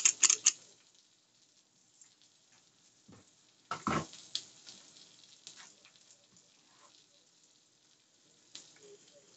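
Faint crackle of ham slices frying in a skillet on the stove, with scattered light clicks and a single thump about four seconds in.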